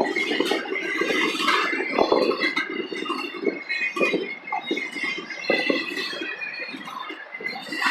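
Freight train rolling past: cars and intermodal containers clanking and rattling irregularly over a steady wheel rumble.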